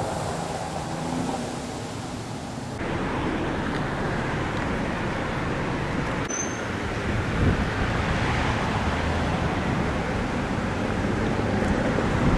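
Steady rushing noise of thunderstorm wind and heavy rain, switching abruptly to a brighter hiss about three seconds in.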